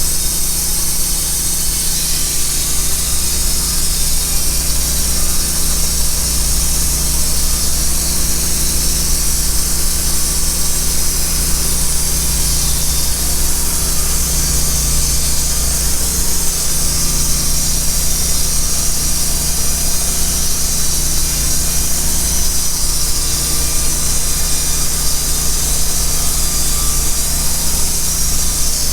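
Wood-Mizer LT15 band sawmill running steadily, its blade sawing through a log: a constant low engine hum under a bright hissing whine.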